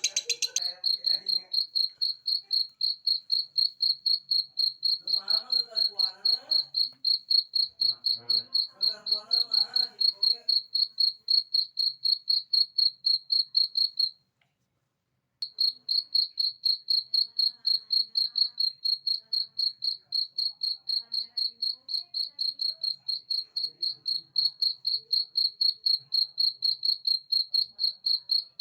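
Cricket chirping in an even, rapid pulse of about five chirps a second on one high pitch, cutting out for about a second partway through, used as a masteran recording for training songbirds.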